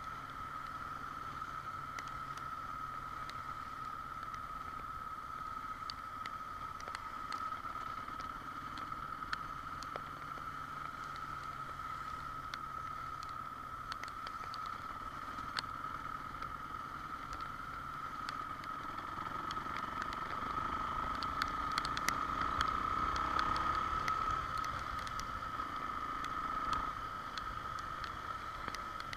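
Motorcycle riding in the rain: steady engine and road noise on the rider's microphone, with scattered sharp ticks. The noise swells louder for several seconds around twenty seconds in, then settles back.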